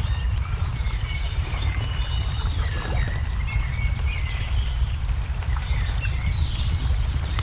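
Layered ambience of a crackling wood fire, with frequent sharp pops and clicks, over many small birds chirping and twittering. A steady low rumble runs underneath.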